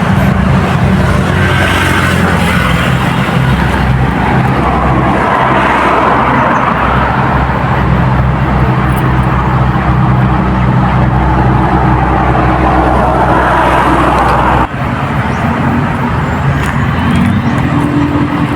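An engine running steadily close by, with a low, even hum. It breaks off abruptly about fifteen seconds in and carries on much the same.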